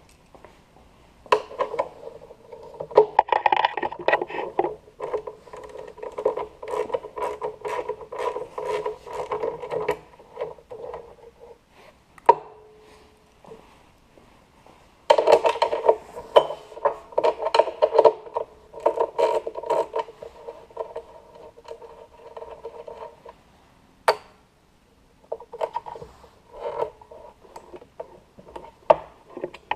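Hand tools working on a small motorcycle: rapid metallic clicking and scraping with a steady ringing note, in three stretches of several seconds separated by short pauses, with a few single sharp clicks between them.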